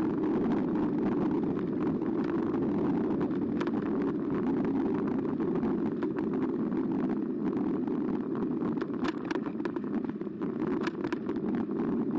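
Riding noise of a Carbo X e-bike: a steady low rumble of tyres and wind on the bike-mounted camera, with scattered sharp clicks and rattles in the second half.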